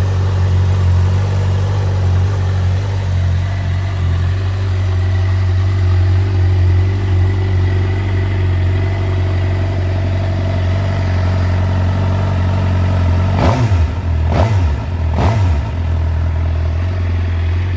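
2013 Suzuki GSX-R750's inline-four engine idling steadily, then revved with three short throttle blips about a second apart near the end before settling back to idle.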